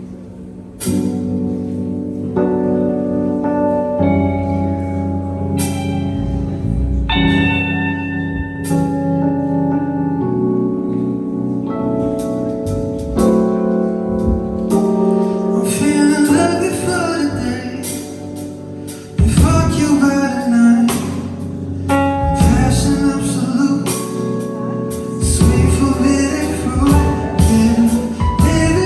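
A song performed live: an instrumental opening of sustained chords struck every second or two, then a voice comes in singing over them about halfway through.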